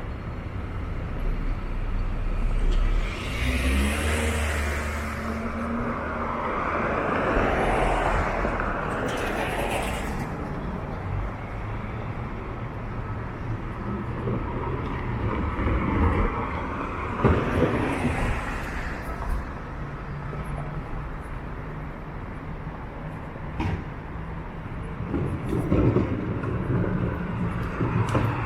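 Downtown street traffic: cars and other vehicles passing one after another, their tyre and engine noise swelling and fading, with a low engine hum about four seconds in.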